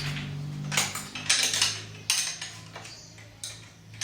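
Metal hand tools clinking and scraping against metal in several short bursts, over a steady low hum.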